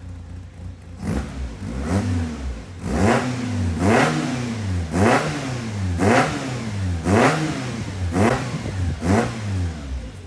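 Toyota AE86's four-cylinder engine heard at the exhaust, its throttle blipped about nine times a little over a second apart. Each rev rises in pitch and drops back to idle.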